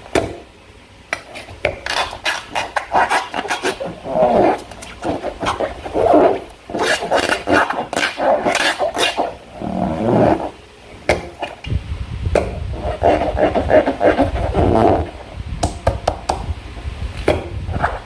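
Slime being squeezed and worked by hand: irregular wet squelches and sticky clicks, with a low rumble joining in about two-thirds of the way through.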